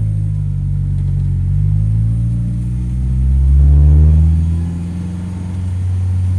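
2009 Mini Cooper S's turbocharged 1.6-litre four-cylinder engine under load on track, its note climbing in pitch and loudness to a peak about four seconds in, then easing off to a steady lower drone.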